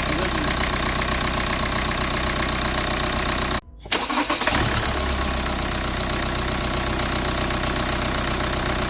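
Hyundai Creta engine running steadily after its overhaul. The sound cuts out for a moment about three and a half seconds in, comes back uneven for about a second, then runs steady again.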